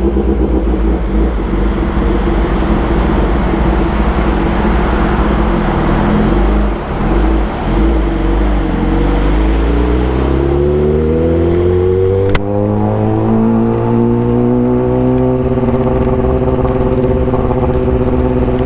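Kawasaki ZX-10R's 1000cc inline-four engine running at a steady speed, easing off briefly about seven seconds in. It then pulls up smoothly through the revs for about five seconds and settles at a steady higher pitch. A single sharp click comes about twelve seconds in.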